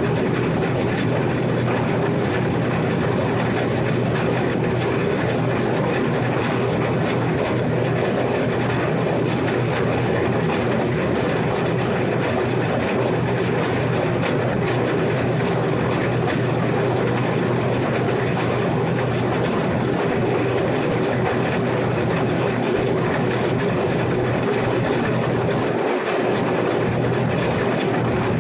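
Case IH 2388 combine running steadily while cutting wheat: an even, continuous machine drone with a low hum.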